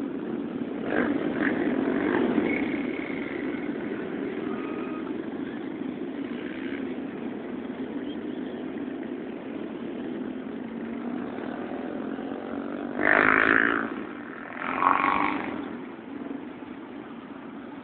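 Motorcycle engines running steadily, with two short louder swells a couple of seconds apart near the end as bikes pass close by.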